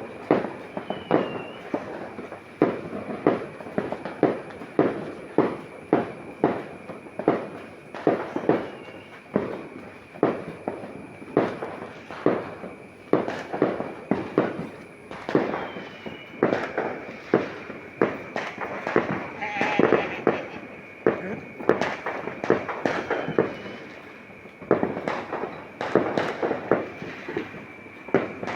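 New Year's fireworks and firecrackers going off in a continuous string of sharp bangs, about two or three a second, with a steady high-pitched tone underneath.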